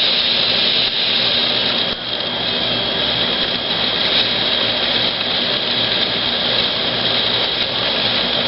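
Ground fountain firework spraying sparks: a loud, steady hissing rush with no bangs, dipping slightly about two seconds in.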